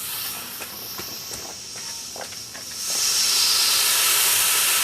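A homemade potassium nitrate and sucrose (rocket candy) motor burning on a static ground test: a harsh, steady hiss of exhaust with a few crackles, growing much louder about three seconds in.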